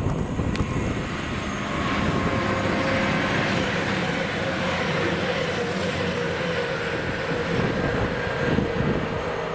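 A diesel train passing on the main line: a continuous rush of engine and wheel-on-rail noise with a steady whine running through it. It builds after about a second and eases off near the end.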